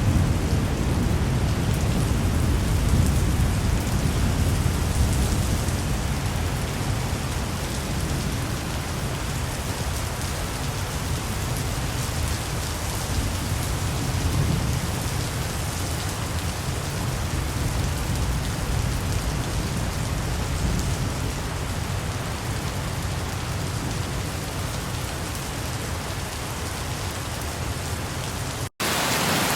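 Steady rain falling, with a low rumble of distant thunder that is strongest in the first few seconds and then eases. The sound cuts out for an instant near the end and the rain picks up again.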